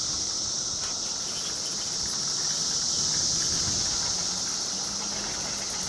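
Insects (crickets or cicadas) droning in a steady, high-pitched chorus that keeps going without a break.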